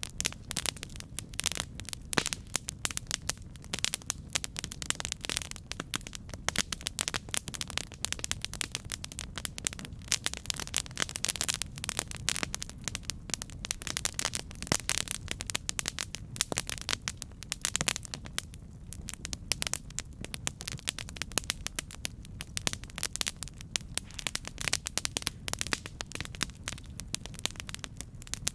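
Campfire burning with dense, irregular crackling and snapping over a low, steady rumble of flames.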